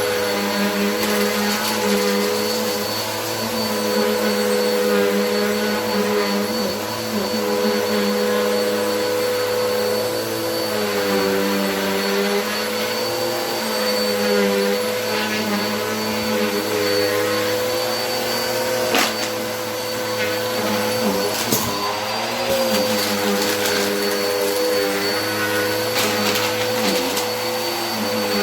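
Vacuum cleaner running continuously, its motor pitch dipping and recovering as the nozzle is worked over the floor, with a high whine above the hum. A few sharp clicks in the second half.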